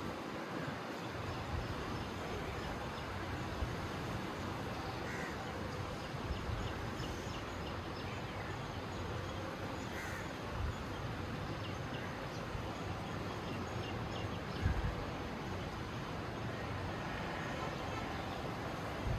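Steady outdoor background noise with a few short bird calls, crow caws among them, and a low thump about fifteen seconds in.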